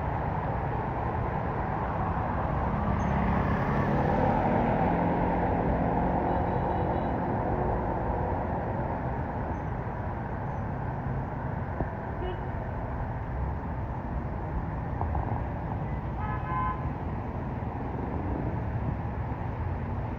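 Road traffic in the rain: a steady rush of tyre and rain noise, with a vehicle passing more loudly a few seconds in and a short car horn beep about sixteen seconds in.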